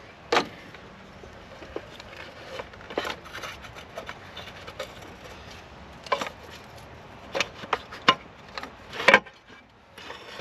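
An engine rocker cover being worked loose and slid out past the timing chain, knocking and scraping against the engine as it goes. The knocks come irregularly, the sharpest in the second half.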